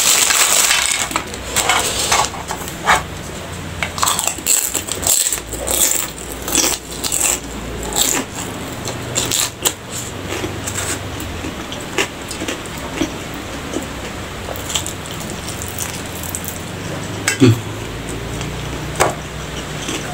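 Close-up eating sounds: a plastic bag crinkles in the first second as rambak crumbs are sprinkled, then irregular crunching chews and mouth clicks follow as rice with salted fish and rambak is eaten by hand.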